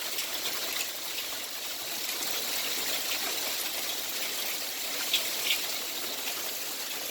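Heavy rain and hail coming down: a steady dense hiss scattered with sharp ticks of hailstones striking, and two louder hits about five seconds in.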